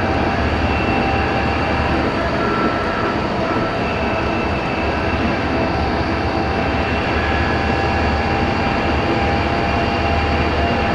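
Steady engine and running noise heard from inside a moving tour vehicle, with faint steady whining tones over a deep rumble.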